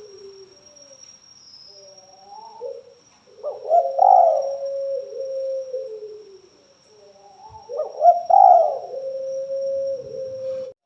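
Spotted dove (tekukur) cooing: low, gliding coo phrases, with two louder calls about four seconds apart.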